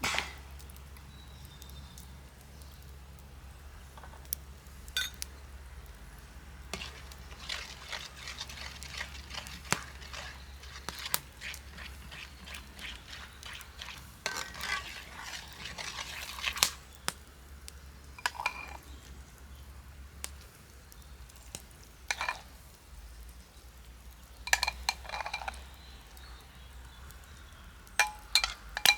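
Cooking utensils clinking and scraping against pans and dishes, with short crackly stretches of frying sizzle in between.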